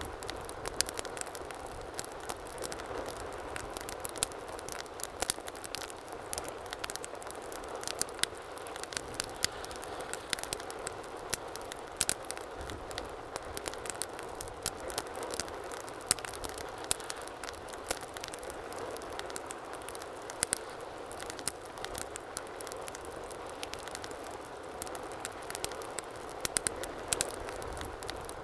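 Fire burning in a fireplace, crackling steadily with frequent sharp pops and snaps over a low rush of flame.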